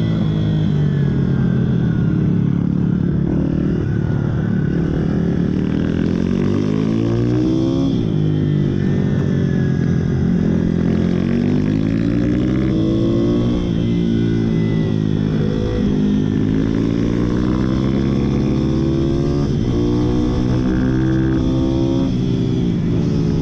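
Pit bike engines revving as the bikes ride, the pitch climbing and dropping over and over with gear changes and throttle, more than one bike heard at once at times.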